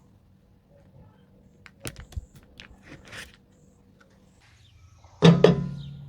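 A few light clicks and taps, then a sudden loud knock about five seconds in that keeps ringing with a low tone as it fades.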